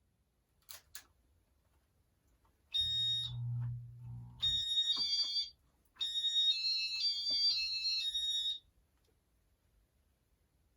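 Two soft clicks, then a run of high electronic beeps in three groups that step between a few pitches, like a short beep tune, from a Casablanca Inteli-Touch ceiling fan control.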